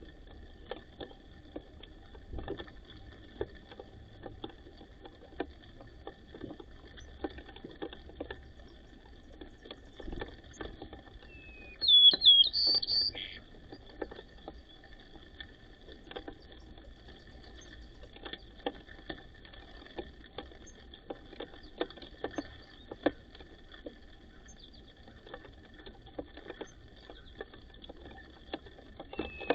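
Small birds pecking at seed, a steady scatter of light taps, with a loud burst of quick, sharp chirps about twelve seconds in and another right at the end. These are white-crowned sparrows squabbling over their pecking order at the food.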